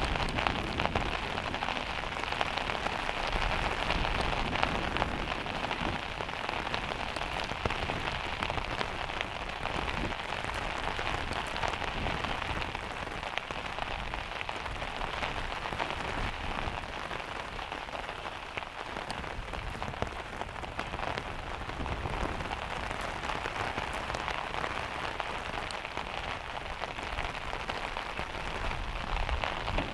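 Heavy rain drumming steadily on the van's metal roof, a dense patter of drops.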